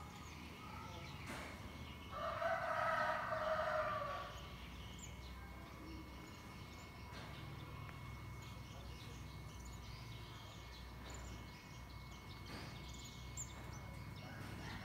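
One loud, drawn-out bird call about two seconds in, lasting about two seconds, with faint short high chirps scattered around it.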